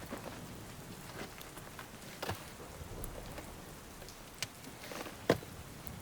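Steady rain, with a few sharp taps of drops or knocks scattered through it, the loudest about five seconds in.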